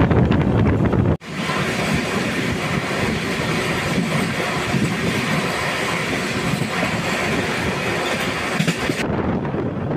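Train running on the rails: wind buffeting the microphone for about the first second, then an abrupt change to a steady, brighter running noise of the moving train, which dulls again near the end.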